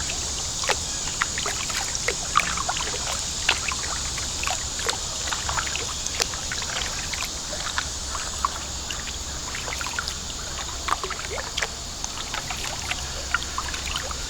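Creek water trickling and lapping around a kayak as it drifts downstream, with many small, irregular drips and splashes over a steady high hiss of moving water.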